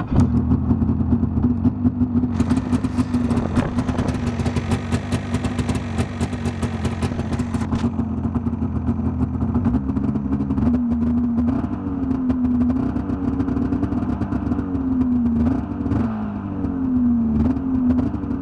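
1998 Yamaha VMAX 600 XTC snowmobile's three-cylinder two-stroke engine catching on a cold start and running at idle. A high clattery rattle sits over it from about two to eight seconds in, and in the second half the engine pitch rises and falls in several short throttle blips.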